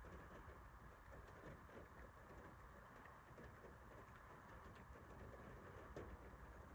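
Near silence: a faint patter of light rain, with scattered soft drips.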